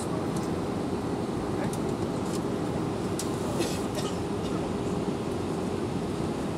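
Steady cabin noise inside an Airbus A319 airliner in flight: a constant rush of engine and airflow noise with a low, even hum.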